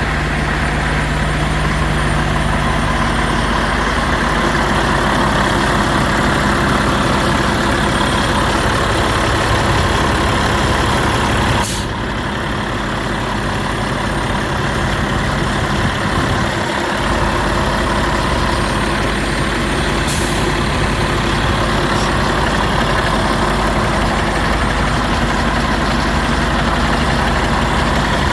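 Mack Granite garbage truck's engine idling steadily. There is a sharp click about twelve seconds in, after which it runs a little quieter, and a brief hiss about eight seconds later.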